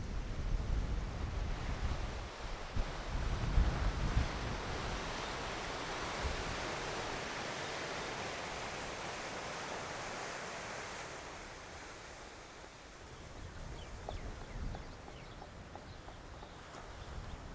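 Surf washing onto a sandy beach: a hiss of breaking water that swells and then fades away about eleven seconds in. Wind buffets the microphone with low rumbling gusts in the first few seconds.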